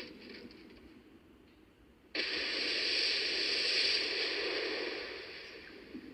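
A sudden loud hiss like static or rushing noise cuts in about two seconds in, holds for about three seconds, then fades away.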